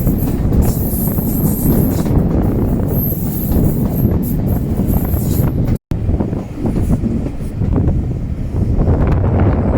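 Steam-hauled passenger train running, a steady low rumble from the carriage on the rails with wind buffeting the phone's microphone. The sound cuts out completely for a split second about six seconds in.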